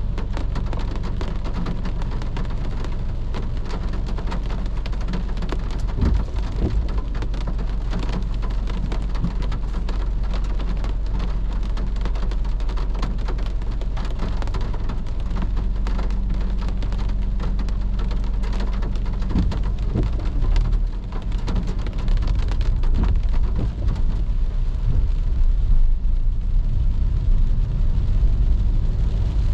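Rain pattering on a moving car, many small drop hits over a steady low rumble of engine and road.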